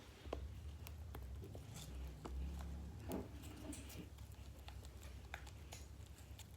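Glue and toothpaste slime mixture being stirred in a container: scattered soft clicks and sticky taps over a low rumble of handling.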